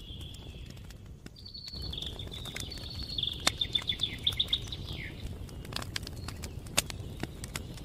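Small birds singing, including a fast trill of repeated high notes about three seconds in, over the sharp pops and crackles of a wood campfire and a steady low rumble.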